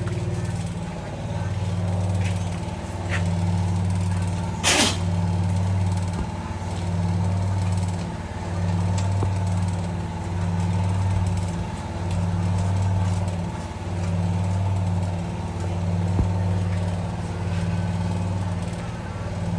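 Portable generator engine running with a low hum that swells and fades about every two seconds, as if hunting under load, with one sharp metallic clank about five seconds in.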